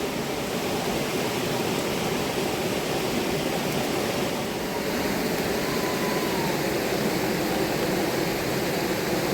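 Rushing river water: a steady, even noise that does not rise or fall.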